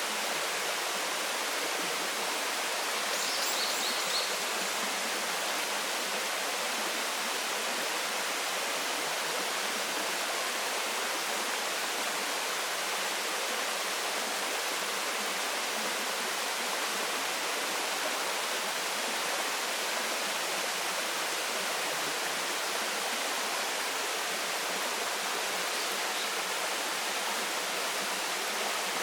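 Waterfall: falling water in a steady, even rush. A few brief high chirps sound about three to four seconds in.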